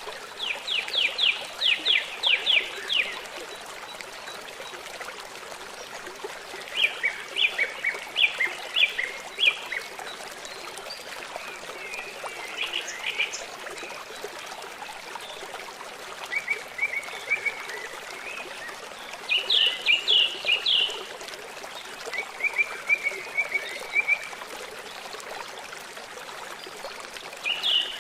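A bird sings short trilled phrases of rapid high notes, repeated every few seconds, over the steady rush of running water.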